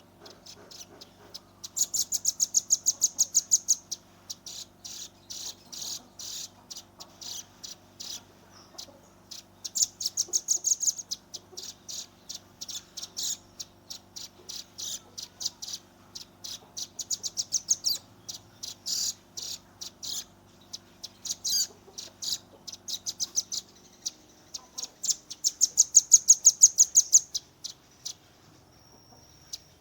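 Velvet-fronted nuthatch calling: strings of sharp, high chips repeated rapidly, running several times into fast rattling trills, the loudest near the end. A faint steady low hum lies underneath until about three-quarters of the way through.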